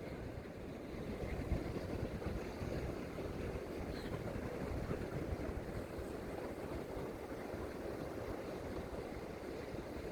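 Steady rushing of wind and sea surf at the shoreline, an even noise mostly in the low range.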